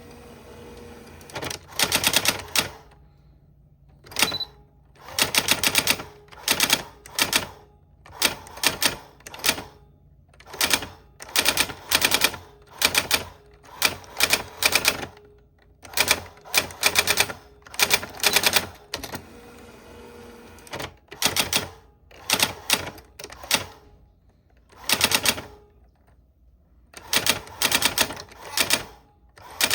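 Old typewriter being typed on: bursts of rapid key strikes clacking against the platen, broken by short pauses.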